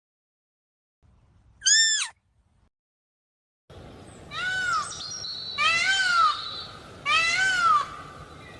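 A deer gives a single short, high call about two seconds in. Then, after a pause, a peacock calls three times, each a loud call that rises and then falls in pitch, about one and a half seconds apart.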